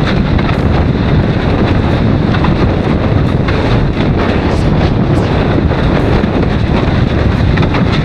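Loud, steady wind buffeting on the microphone over rushing water from a windsurf board sailing fast in strong wind.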